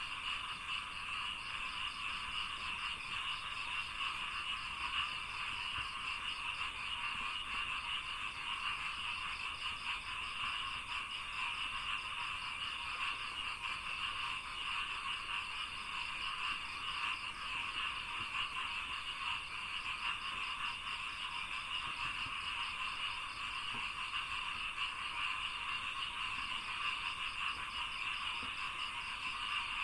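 A dense, steady chorus of many frogs calling in rice paddies, with a faint rapid pulsing higher up.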